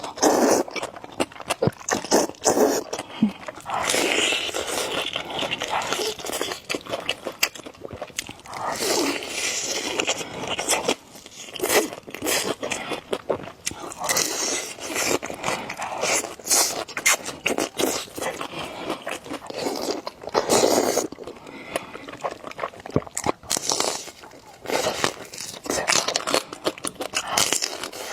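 Close-miked eating of noodles: steady chewing and biting with many wet clicks and smacks, and a few longer slurps of about a second each.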